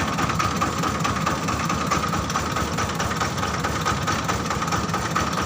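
Diesel engine of a mobile rice-hulling machine running steadily, with a steady high whine over the engine.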